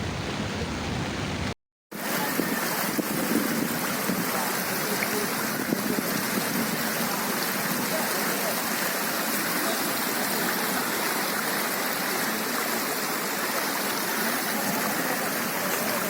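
Floodwater rushing and flowing, a steady hiss of moving water. It breaks off for a moment about a second and a half in, then carries on unchanged.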